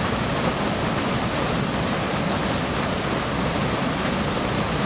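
Storm runoff rushing out of a culvert pipe's mouth and swirling in the pool below, a steady loud rush of water.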